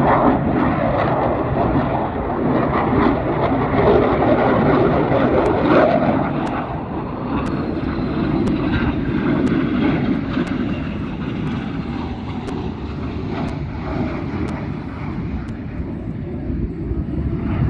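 Airshow aircraft flying overhead: a loud, steady engine rumble that swells and eases.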